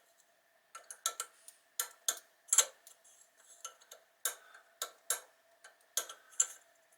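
Irregular light metallic clicks and taps as a 5C collet is turned and pushed in a Hardinge Sjogren speed chuck, hunting for the key to line up with the collet's keyway. A faint steady hum sits underneath.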